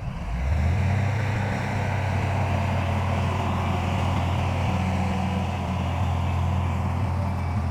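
Heavy diesel engine of earth-moving machinery running steadily under load, a low drone with a grinding rattle above it.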